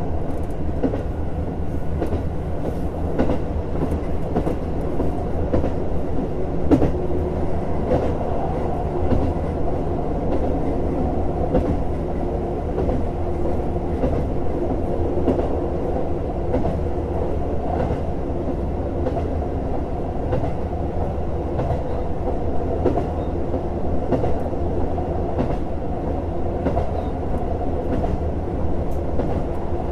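JR Hokkaido KiHa 150 diesel railcar running along the line: a steady diesel engine drone and rumble, with scattered clicks from the wheels on the track.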